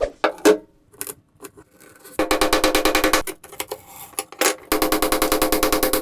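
Rapid, evenly spaced scraping strokes on metal in two spells of about a second each, after a few sharp knocks at the start. This is hand work on a rusty cleaver during its restoration.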